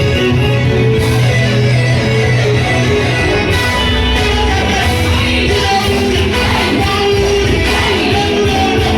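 Loud band music with guitar, bass and singing voices joining about halfway through.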